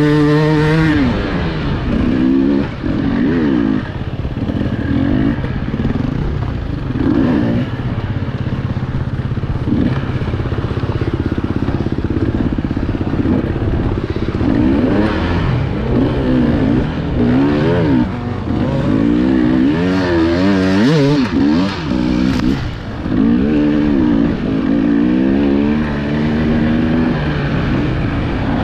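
Loud enduro motorcycle engine revving up and down over and over as the throttle is opened and closed, with a few clattering knocks in the middle.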